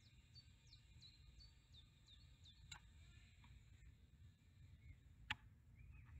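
Near silence with faint outdoor background noise. A bird gives a quick series of about eight short falling chirps in the first couple of seconds, and two faint clicks follow later.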